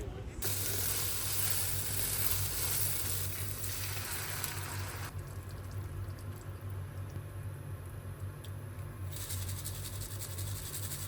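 Food sizzling as it fries in a pan: a steady hiss that stops about five seconds in and starts again near the end.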